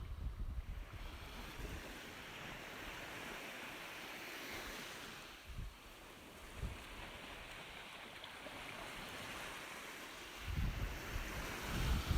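Ocean surf washing in and receding in slow swells, with a low wind rumble growing near the end.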